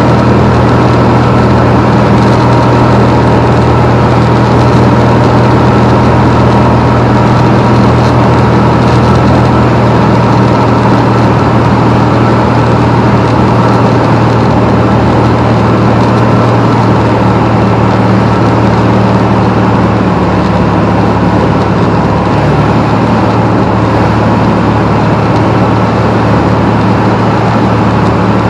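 Piper Comanche 250's six-cylinder piston engine and propeller droning steadily, heard inside the cockpit. The pitch shifts slightly about 20 seconds in.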